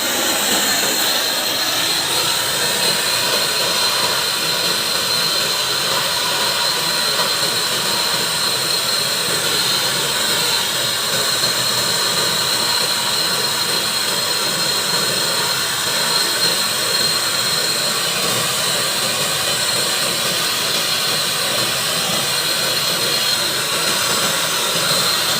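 MAP gas brazing torch flame burning with a steady, unbroken rushing hiss while copper pipe is heated for brazing.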